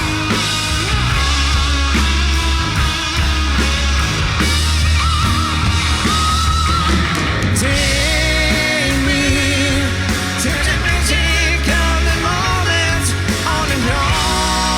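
Rock band playing an instrumental stretch: electric guitar lead with wavering bent notes and vibrato over heavy bass and drums.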